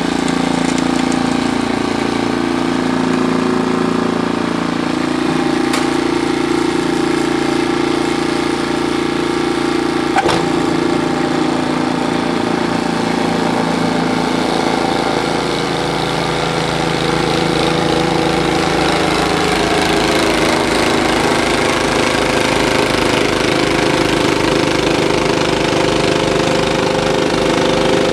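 An engine running steadily, its tone changing about halfway through, with one sharp click about ten seconds in.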